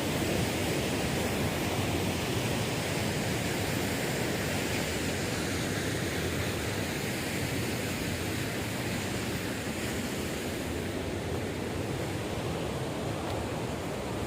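Waterfall: a steady, even rush of falling water, with no single splashes or breaks standing out.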